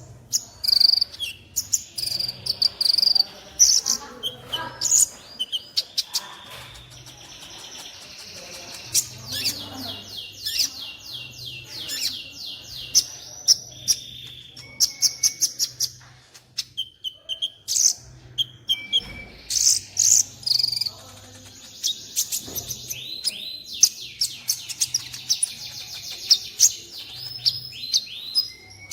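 Sunbird song: high, sharp chirps and bursts of fast trilling notes, repeated in several phrases.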